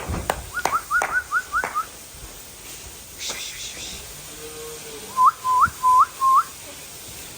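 A person whistling short, rising whistles to drive calves along: five quick ones, then four louder ones a few seconds later, with a few sharp knocks in between.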